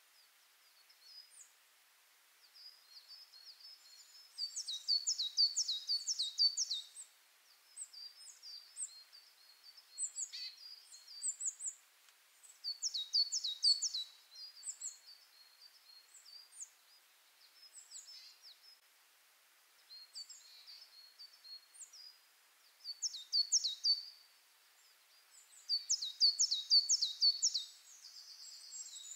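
Songbirds singing: fast high trilled phrases of quick chirps, repeated every several seconds, with scattered single chirps between them.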